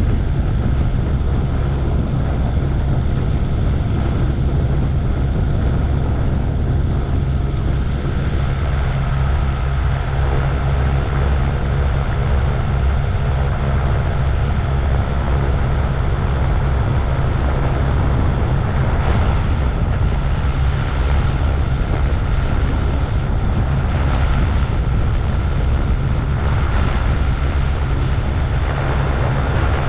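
Gyroplane's engine and pusher propeller running steadily, a dense low drone from the cockpit. A faint steady whine comes up about two-thirds of the way through.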